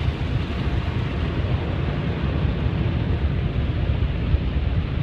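LaserWash 360 touchless car wash running its spot-free rinse and flash-dry stage, heard from inside the car: a steady low rumble under a rushing hiss of water spray.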